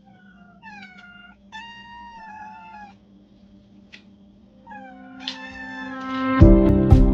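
Kitten meowing: three high-pitched meows, the second one longer, over a faint steady hum. Loud background music with a beat comes in near the end.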